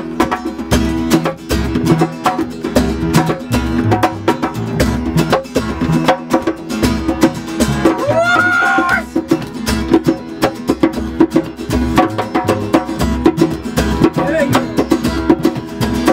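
Live acoustic music, an instrumental opening: strummed acoustic guitar over a steady, regular beat, with a brief wavering high note about halfway through.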